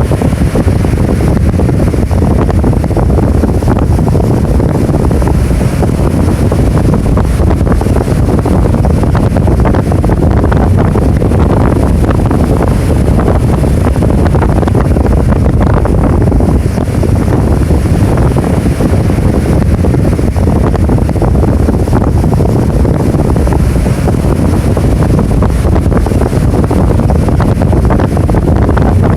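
Rough typhoon surf crashing continuously, with strong wind buffeting the microphone; a loud, steady rumble that never lets up.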